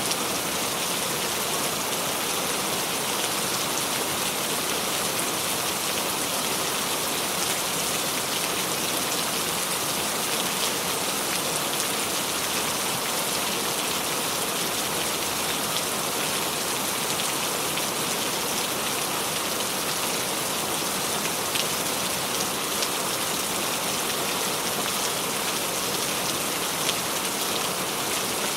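Steady rain falling on a surface, an even hiss with many fine, scattered drop patters.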